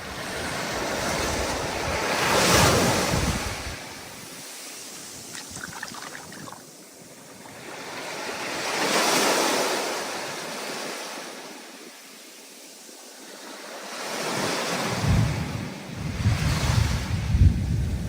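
Storm surf on the ocean: waves surging in and breaking in three slow swells, about six to seven seconds apart. Wind buffets the microphone with a low rumble during the last swell, near the end.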